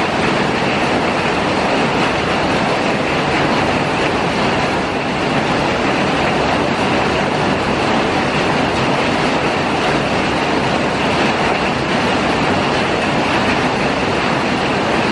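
Steady rain falling on wet concrete pavers and fallen leaves, an even, unbroken hiss.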